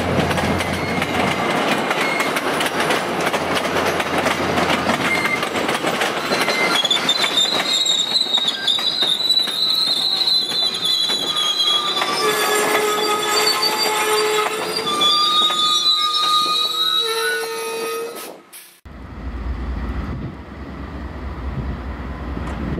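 MBTA commuter-rail passenger coaches rolling past, wheels clicking over the rail joints and, from about seven seconds in, squealing in several high pitches. Near the end the sound cuts off abruptly to a quieter low rumble.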